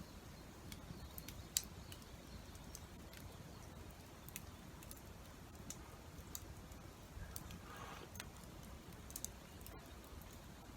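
Wood campfire crackling faintly, with irregular sharp pops and ticks; the loudest pop comes about a second and a half in.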